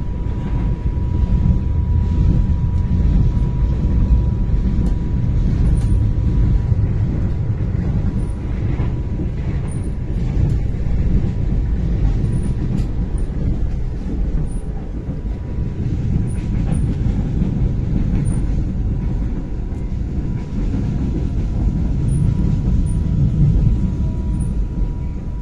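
Cabin of a moving passenger train: a steady low rumble of the wheels running on the track, with a faint steady high whine throughout.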